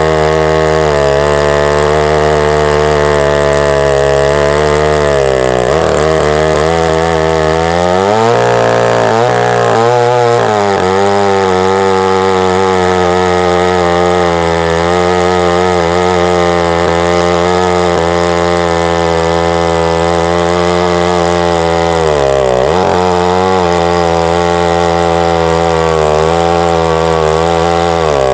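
Husqvarna 2100CD 100cc two-stroke chainsaw running at full throttle under load, ripping a log lengthwise in a chainsaw mill. Its engine speed sags and recovers several times: about six seconds in, again between about eight and ten seconds, and once more past twenty seconds.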